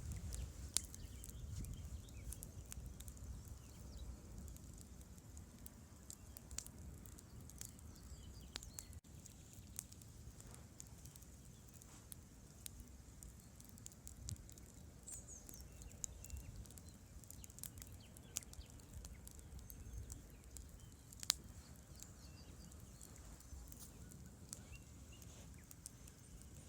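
Campfire burning with irregular crackles and pops of burning wood over a steady low rumble, with one sharper pop near the end.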